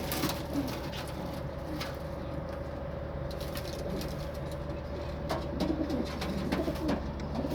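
Domestic pigeons cooing, low repeated coos that come thickest in the second half, with scattered sharp taps and a steady faint hum underneath.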